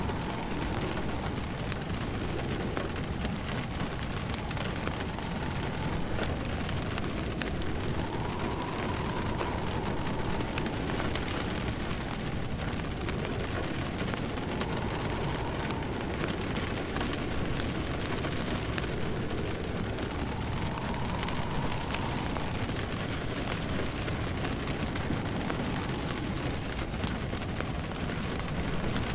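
Layered ambience of steady rain with a crackling fireplace, its many small pops over the rain's even hiss. A wind howl near the middle of the range swells and fades about every six seconds.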